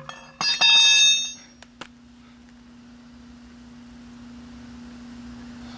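Truck hubcap being pried off the wheel: a sharp metallic clank that rings for just under a second, then a single click, followed by a faint steady hum.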